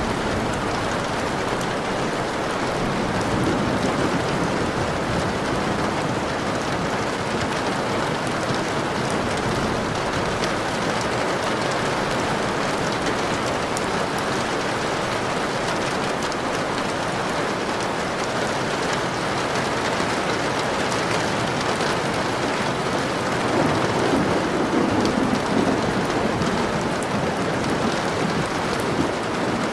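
Steady rain falling, an even hiss without a break, with a soft low rumble swelling briefly about three quarters of the way through.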